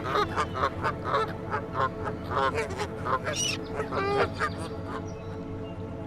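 Birds calling: a rapid series of short calls, several a second, that stops about five seconds in.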